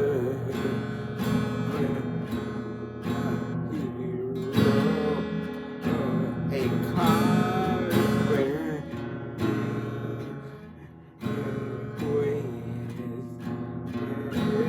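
Background music on strummed acoustic guitar with a wavering melody line over it; it fades away about ten seconds in and comes back in abruptly a second later.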